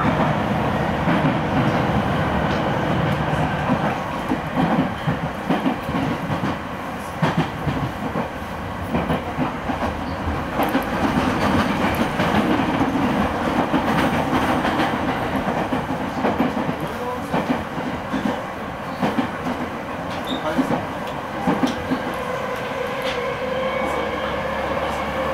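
JR East E217 series electric train heard from inside a motor car while running: a steady rumble with rail-joint clacks. Near the end the traction motors' whine rises in pitch as the train powers up.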